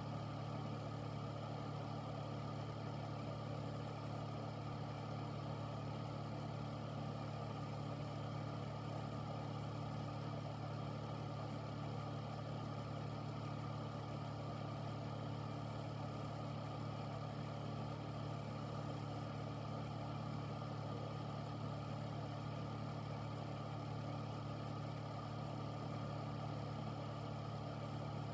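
Air purifier running steadily: a constant motor hum under an even rush of air from its fan.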